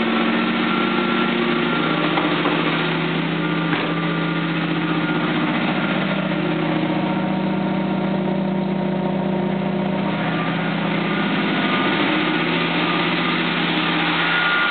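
1979 Hurst/Olds V8 idling steadily on a cold start after sitting for months, not yet warmed up. A faint steady whine rides over the idle, which the owner takes for a power steering pump low on fluid.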